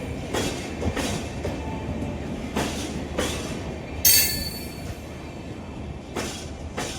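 Passenger coaches of an express train rolling past, wheels clacking over rail joints in irregular pairs under a steady rumble, with a short high-pitched wheel screech about four seconds in.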